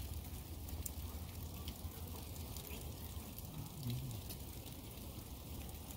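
Steady rain falling, with scattered drops dripping close by in irregular light ticks.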